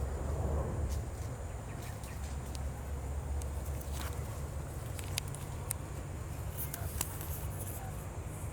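A bird's short, sharp chips, heard about six times at uneven intervals over a steady low rumble, typical of a mother bird's alarm calls near her nest.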